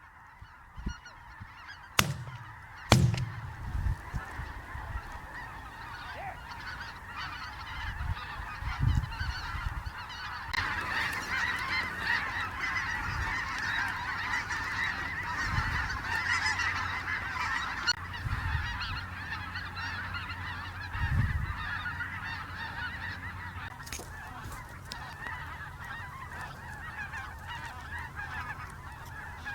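Large flock of snow geese calling: a dense, continuous chorus of honks that grows fuller about a third of the way in. A couple of sharp knocks come in the first few seconds.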